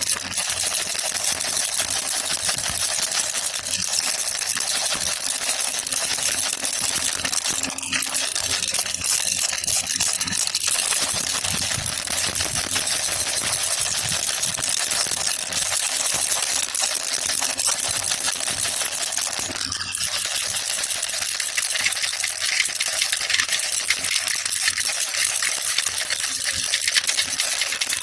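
Baby rattle (jhunjhuna) shaken continuously, its beads rattling in a dense, steady stream of fine clicks.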